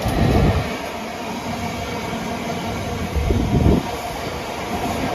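Class 350 Desiro electric multiple unit passing through at speed: a steady rumble of wheels on the rails, with two louder low surges, one near the start and one about three and a half seconds in.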